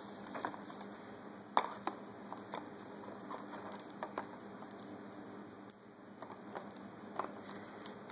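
Grey parrot's beak working at the plastic wrapping of a chocolate bunny: scattered small clicks, taps and crinkles at irregular intervals.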